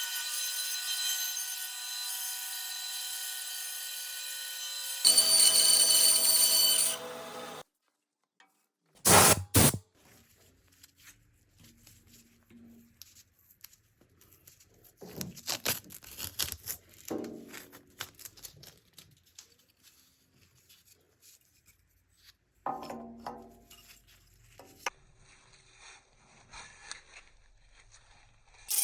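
Woodworking power tool running with a steady whine that grows louder for a couple of seconds, then cuts off. Short loud bursts follow, then scattered quieter scraping and rubbing of tools on wood.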